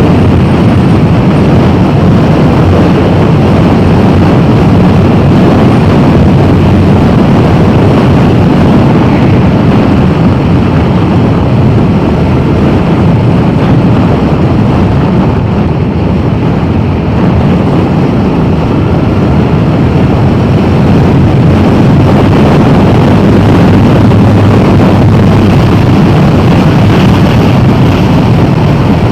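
Motorcycle riding at steady speed: loud, unbroken wind rush on the microphone over the engine's drone.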